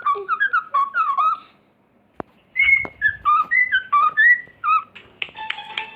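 A pet bird whistling a tune in short, clear, gliding notes. It whistles two runs of phrases with a brief pause about two seconds in.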